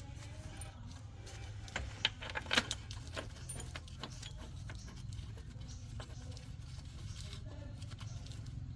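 Small metal tools and parts clinking and rattling, with a cluster of sharp clinks about two to three seconds in, over a steady low hum.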